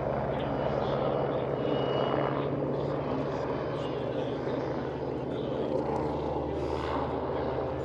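Aerobatic display aircraft flying over, a steady engine drone.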